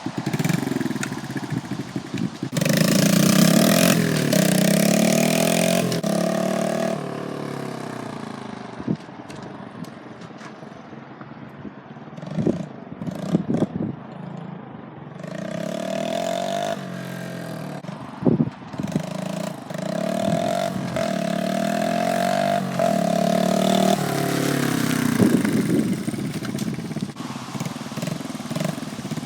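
Honda Z50 mini bike's small single-cylinder four-stroke engine running as the bike is ridden, its pitch rising and falling with the throttle and shifts. It is loud for a few seconds near the start, fades for several seconds with a few sharp clicks, then is loud again for most of the second half.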